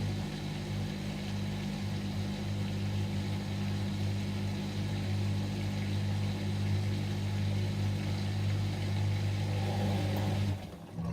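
Whirlpool front-loading washing machine running on a delicate wash programme, with a steady low hum. The hum cuts off abruptly near the end.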